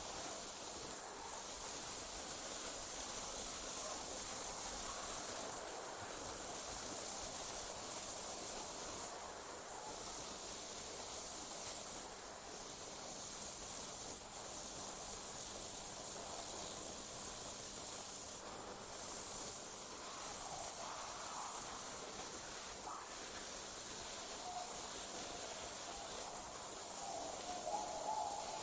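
Crickets trilling at night in a steady, high-pitched chorus that breaks off for a moment every few seconds.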